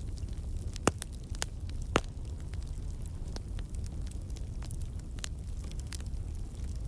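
Campfire burning, a steady low rumble of flames under scattered sharp crackles and pops from the logs, the two loudest about one and two seconds in. The crackling comes from water and sap in the wood turning to steam and bursting out.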